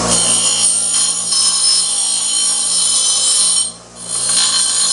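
Deburring the freshly drilled hole in steel EMT conduit: metal scraping against metal with a shrill, ringing squeal. The squeal stops briefly a little before four seconds in, then starts again, over a steady low hum.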